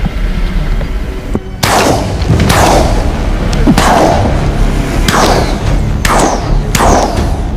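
A rapid, irregular volley of gunshots, about five sharp reports each with a short echoing tail, starting about a second and a half in, over background music.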